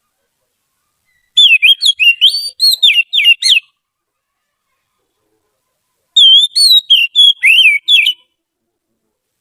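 Oriental magpie-robin (kacer) singing: two phrases of rapid, warbling whistled notes, each about two seconds long, with silence between them.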